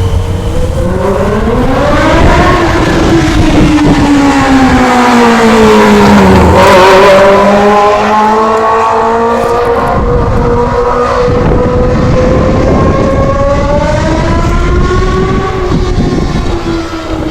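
A loud vehicle engine revving as it drives past. Its pitch climbs over the first couple of seconds, then falls as it passes, loudest about seven seconds in. It climbs again in steps later on.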